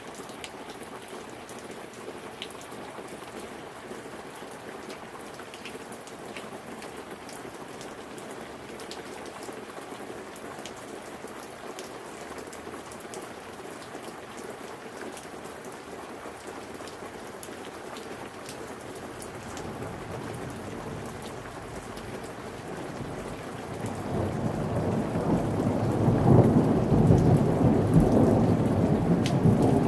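Steady rain falling, with a low rumble of thunder that builds about two-thirds of the way through and grows loud near the end.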